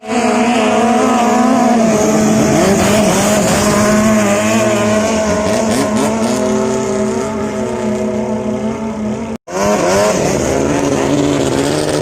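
Longtail boat's diesel engine running hard at high revs, its pitch wavering up and down. It cuts out for a split second about nine seconds in, then comes back rising in pitch.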